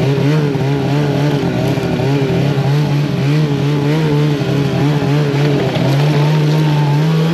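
Snowmobile engine running as the sled rides up a trail. Its pitch drops at the start, wavers with the throttle, and rises again about six seconds in.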